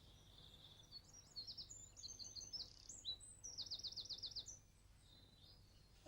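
Faint songbird singing: a string of high chirps, then a quick trill of about eight down-slurred notes.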